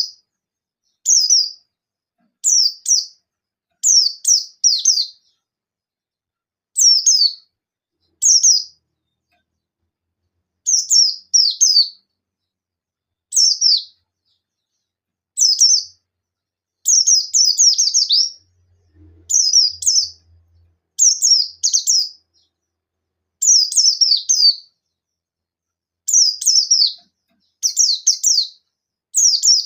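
Buxtoni white-eye (pleci) singing in short bursts of rapid, high, falling chirps, one burst every second or two with silent gaps between. This is the repeated 'nembak' calling used to provoke other white-eyes into song.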